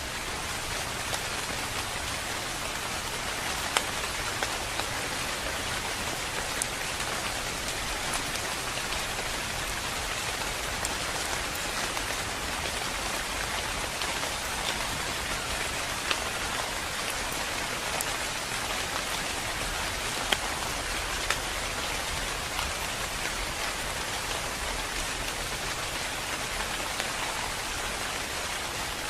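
Steady rain falling, with scattered louder drops ticking on a surface.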